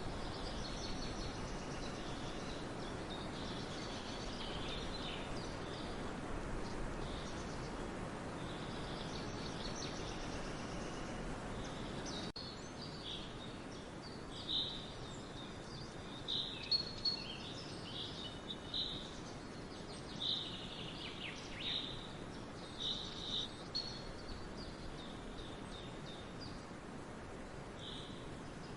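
Small songbirds chirping and calling in forest with short, high notes over a steady background hiss. About halfway through, the background drops a little and a nearer bird gives a run of louder, separate chirps.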